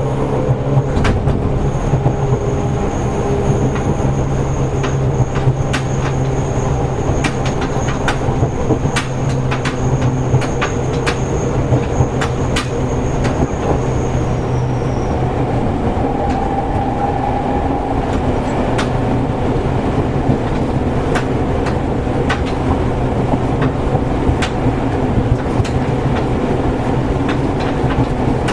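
Seibu 101 series electric train running between stations, heard from inside motor car MoHa 223. A steady low hum from the traction motors runs under repeated clicks of the wheels over rail joints. A thin high whine sounds for the first half and then stops.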